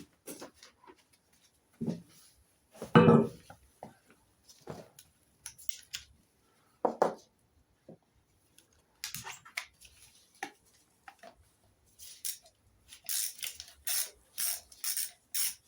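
Metal hand tools clinking and knocking, with one heavier knock about three seconds in, then a socket ratchet being worked in quick short strokes on a bolt near the end.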